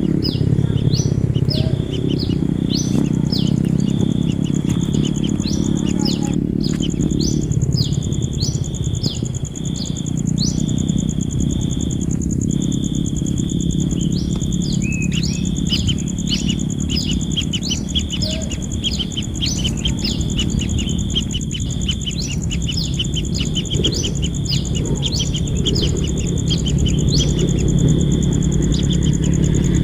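Bird chirping: short high chirps repeated several times a second, over a steady low rumble and a thin, steady high whine.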